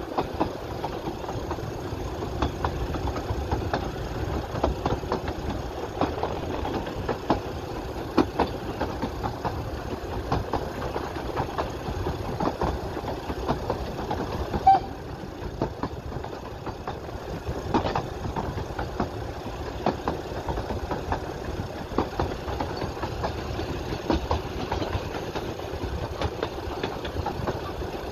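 Narrow-gauge steam train running, heard on board: a steady rumble with frequent irregular clicks and rattles from the carriage and wheels.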